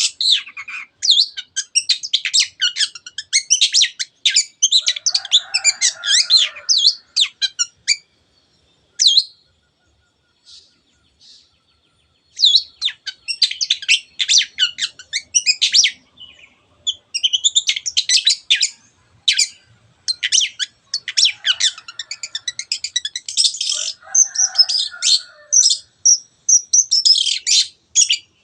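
Long-tailed shrike (cendet) singing loudly: fast bouts of chattering, high notes, with a few harsher, lower notes mixed in and a pause of a few seconds about eight seconds in.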